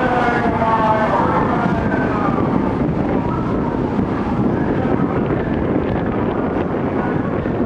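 An N700A Shinkansen train pulling out of the station, its electric traction motors giving several layered whining tones that slide down in pitch over the first couple of seconds, over a steady rumble of the train moving along the track.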